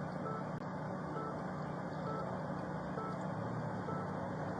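Vehicle warning chime beeping faintly about once a second over a steady low vehicle hum.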